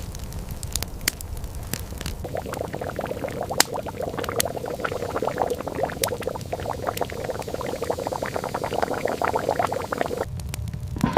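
Liquid bubbling and popping, with scattered sharp crackles. The bubbling thickens about two seconds in and stops abruptly near the end.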